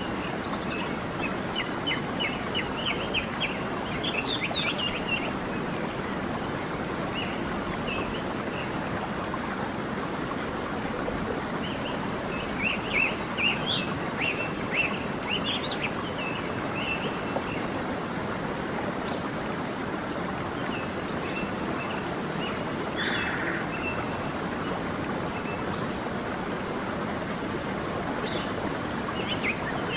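Steady rush of a flowing stream, with songbirds chirping in short flurries: a run of chirps in the first few seconds, another mid-way, a single call a little later and more near the end.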